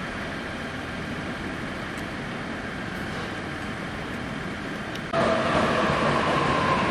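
Electric commuter train at a station platform: a steady rumbling hiss, then about five seconds in a sudden louder train sound with a whine slowly falling in pitch.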